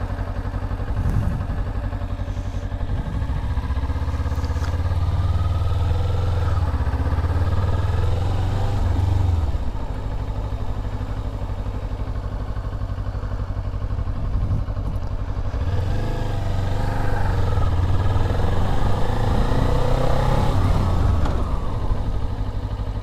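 Motorcycle engine accelerating on two runs, its pitch rising from about four seconds in and again from about sixteen seconds in, each time dropping back as the rider brakes hard to a stop. The second stop is hard enough to set off the anti-lock brakes.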